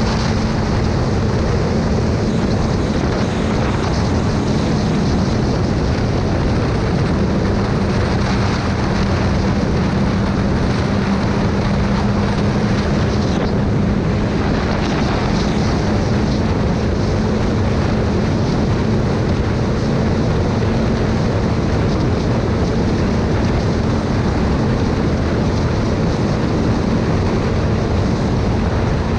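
Motorcycle engine running at a steady cruising speed with an unchanging drone, under a continuous rush of wind noise on the microphone.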